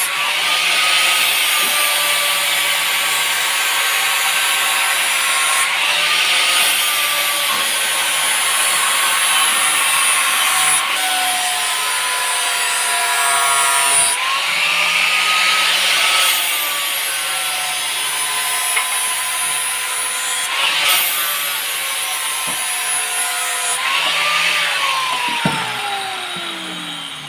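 Electric grinder working a steel blade blank cut from a car leaf spring: the motor's tone dips each time it is pressed into the steel, with a rasping hiss during contact, then recovers. Near the end the motor winds down, its pitch falling steadily.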